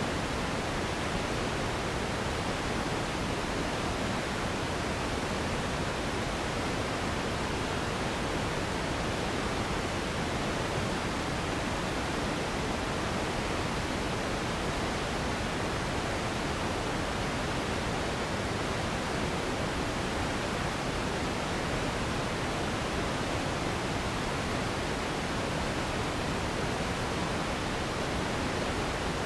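Steady pink noise for sleep: an even, unbroken hiss, fuller in the low and middle range than at the top.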